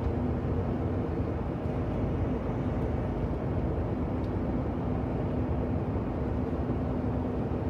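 Semi-truck cab interior at highway cruising speed: a steady drone of the diesel engine and tyre and road noise, with a faint steady hum running through it.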